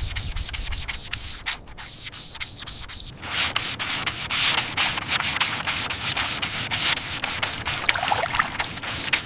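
Sanding: rapid, irregular abrasive strokes rubbing over a surface, growing louder about three seconds in.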